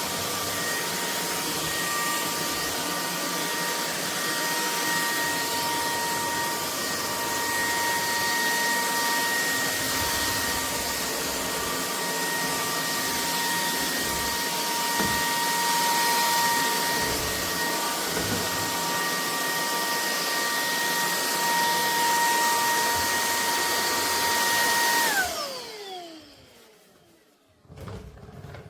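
Bulelink cordless stick vacuum running steadily, airflow rushing under a high motor whine. About 25 seconds in it is switched off and the whine falls in pitch as the motor spins down. A few light knocks follow near the end.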